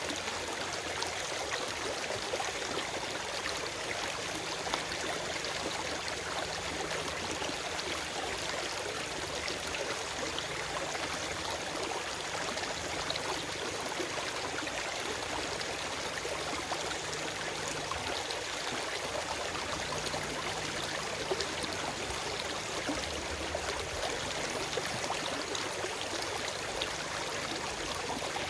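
Forest stream flowing steadily over rocks, a constant rushing and babbling with small splashes and trickles, with no birdsong.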